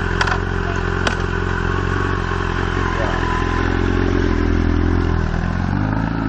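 Large motorcycle engine running steadily at low revs, with two sharp clicks early on; the engine note changes abruptly near the end.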